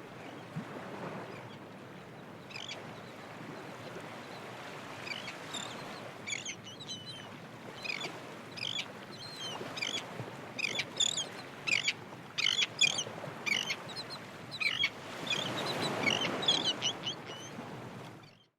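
A flock of birds calling in many short, quick chirps over a steady rushing background, the calls starting a couple of seconds in and crowding together in the middle; the rush swells near the end.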